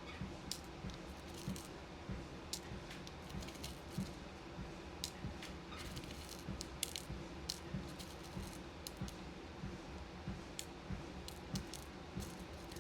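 Footsteps thudding about twice a second on a walking pad over its steady low hum, with irregular small clicks and rattles of beads being handled and sorted.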